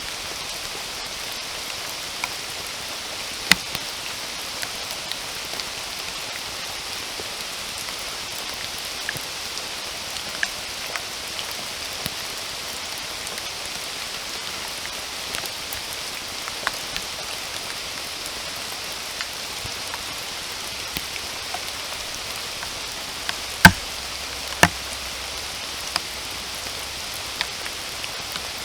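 Steady rain falling with an even hiss, with scattered single drops striking close by as sharp taps. Two loud drops about a second apart stand out near the end.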